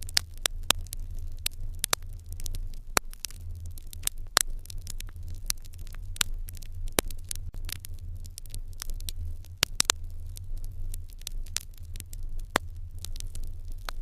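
Wood fire burning, with frequent irregular sharp crackles and pops over a low steady rumble.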